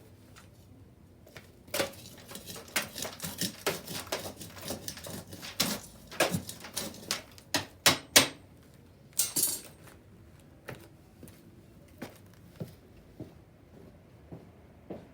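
Bonfire wood crackling and popping: a dense run of sharp cracks and snaps for several seconds, then only scattered single pops.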